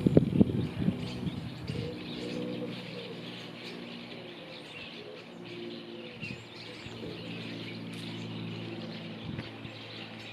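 A pigeon cooing in repeated low phrases, with small birds chirping faintly. A few low bumps sound in the first second.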